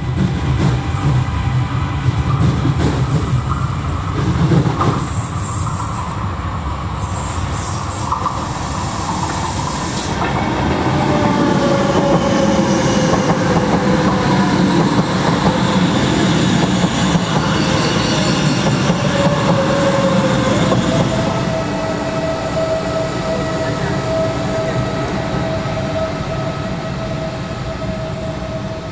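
A CP Alfa Pendular tilting electric train running through a station on a curve, a steady rumble with a drawn-out wheel squeal that sinks slightly in pitch, then holds steady and a little higher from about two-thirds of the way through.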